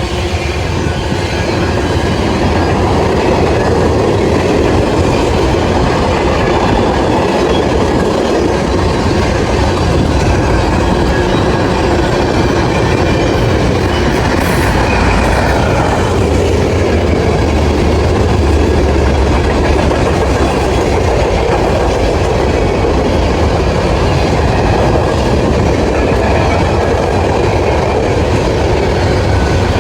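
Train rolling steadily past at close range, its wheels clicking over the rail joints in a continuous rumble.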